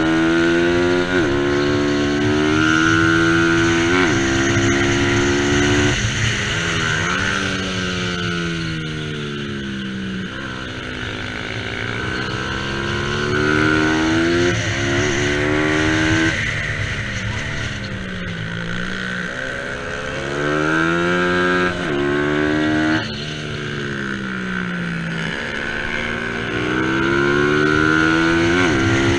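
Bajaj Pulsar 200 NS single-cylinder engine at race pace. The revs climb hard with quick drops at each upshift, then slide down on deceleration several times, over a steady rushing noise.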